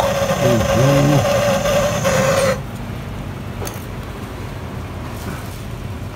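A motor running with a steady, slightly wavering hum, then cutting off abruptly about two and a half seconds in, leaving only a low background with a few faint clicks.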